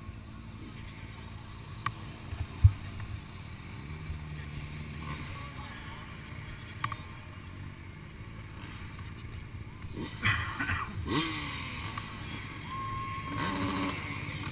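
Motorcycle engine running low and steady with a few sharp knocks, then revving in louder short bursts from about ten seconds in.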